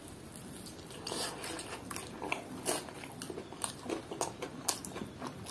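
Close-up eating sounds of a crispy fried chicken leg: a bite, then chewing with sharp, irregular crunches starting about a second in.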